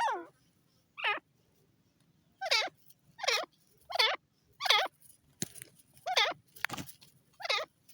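Grey francolin calling: a series of about eight short notes, each sliding down in pitch, repeated roughly once a second at uneven spacing. Two sharp knocks come between the calls in the second half.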